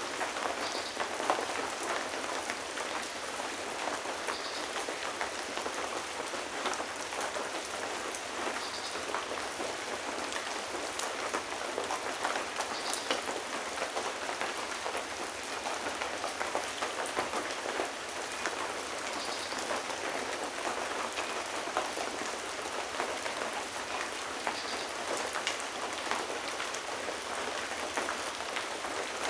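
Steady rain: an even hiss with many separate drops striking.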